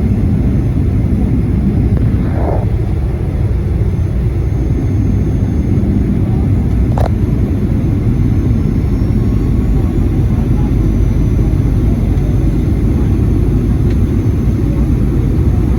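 Steady low rumble of engine and airflow noise inside the cabin of a Boeing 737-800 airliner, with a single sharp click about seven seconds in.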